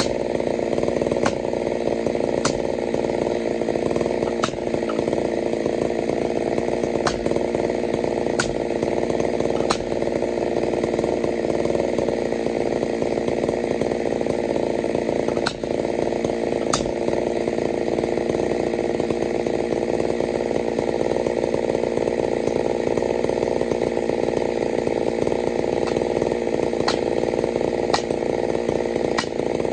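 Chainsaw with a 32-inch bar running steadily at high revs through a long cut in wood, its pitch holding nearly level, with scattered sharp ticks over it.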